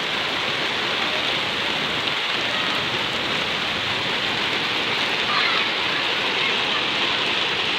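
Steady rain falling and splashing on hard surfaces, an even hiss.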